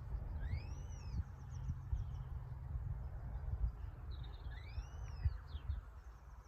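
Wild birds calling outdoors: two arching calls that rise and fall, about four seconds apart, with short rapid trills between, over a steady low rumble.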